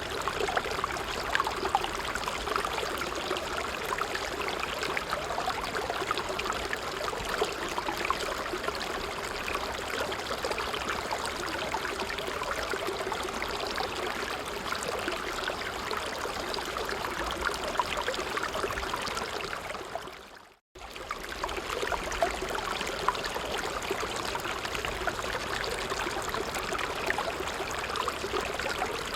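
A small stream running: a steady rush of water with many small trickles and splashes. About two-thirds of the way through, the sound fades out for a moment and cuts straight back in.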